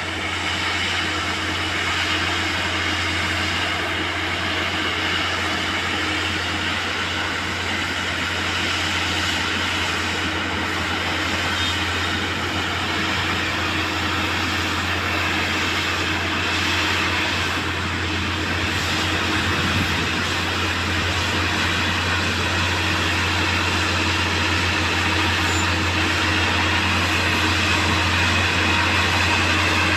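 Railway track maintenance machine running steadily: a constant low engine hum under an even wash of mechanical noise.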